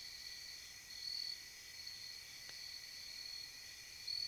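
Chorus of night insects trilling steadily at a high pitch, with a louder burst of chirping about a second in and again near the end. A faint single tick about midway.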